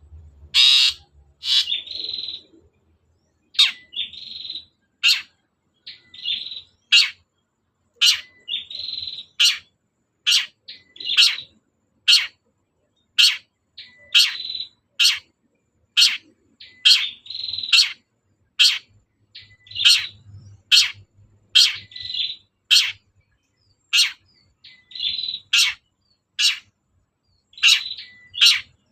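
Long-tailed shrike singing continuously: sharp, loud notes about once a second, alternating with short harsh, buzzy phrases.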